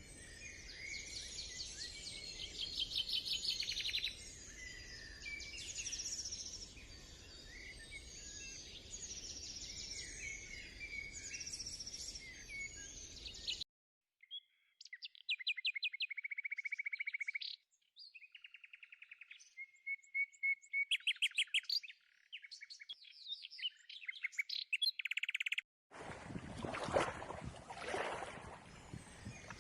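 Songbirds chirping and singing, first as a busy chorus over a soft outdoor hiss. About halfway through this gives way to clean, repeated song phrases with silence around them. Near the end a loud rushing noise comes in under the chirps.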